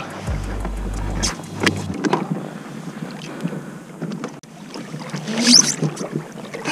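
Water splashing and dripping with scattered knocks and clicks on a kayak as a crab trotline is pulled up and a dip net goes after a crab, with a brighter splash about five seconds in.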